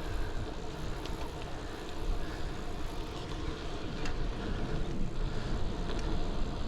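Steady rumble of wind and road noise on a chest-mounted camera's microphone while riding a folding bike, with a few faint ticks.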